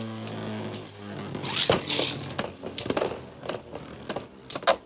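A spinning Beyblade's hum, sinking slightly in pitch as it winds down and fading out about a second in. It is followed by a scattered series of sharp plastic clicks and knocks.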